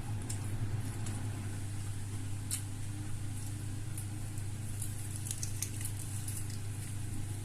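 Steady low hum with a few faint, sharp crunches and mouth clicks of chewing crispy fried chicken.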